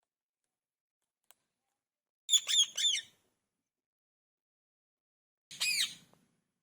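Parrot giving two short bouts of squawking calls: a quick run of three or four harsh notes a couple of seconds in, and a shorter burst near the end, after a faint click.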